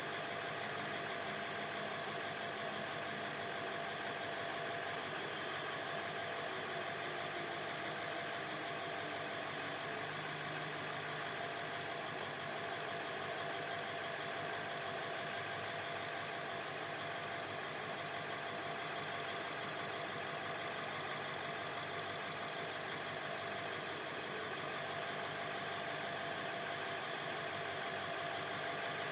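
Truck engine idling steadily, with a thin steady tone running over it.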